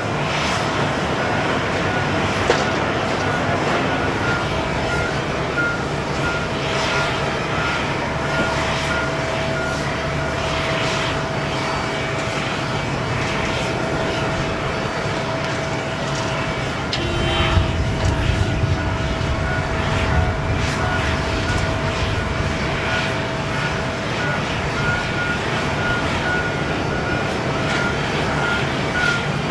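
Rolls-Royce Trent 1000 jet engines of a Boeing 787-8 running steadily at low power, a continuous whine and rumble, with a faint repeating beep behind them and a brief swell of low rumble about halfway through.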